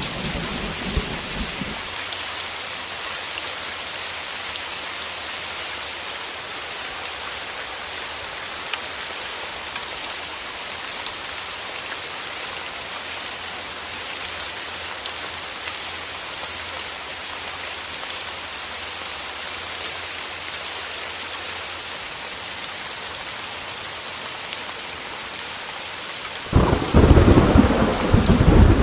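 Heavy rain on a window, falling steadily with fine drop patter. A low rumble of thunder dies away in the first couple of seconds, and a loud thunderclap breaks in suddenly near the end and keeps rumbling.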